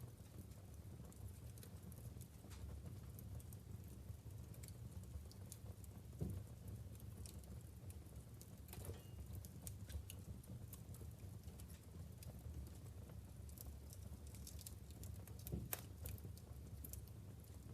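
Wood fire burning in a fireplace: logs crackling with scattered small pops over a low steady rumble, and two louder pops, one about six seconds in and one near the end.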